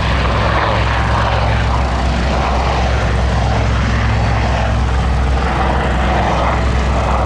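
Westland Super Lynx Mk95 helicopter flying: the main rotor and twin turboshaft engines make a loud, steady drone with low tones underneath.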